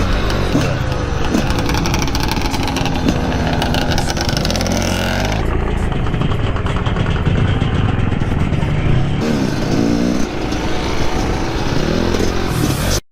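Dirt bike engine running hard, revving up and down through the gears, with rushing noise over it; it cuts off abruptly at the end.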